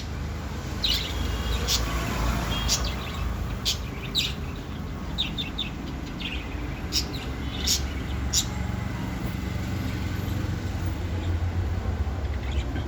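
Budgerigars giving short, sharp chirps in quick scattered bursts that stop about two-thirds of the way through, over a steady low rumble.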